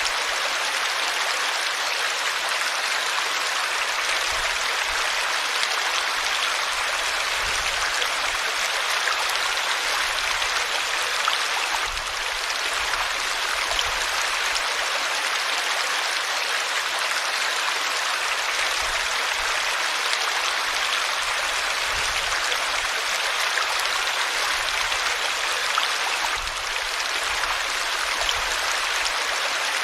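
River water flowing steadily: a continuous, even rush of running water with little deep rumble.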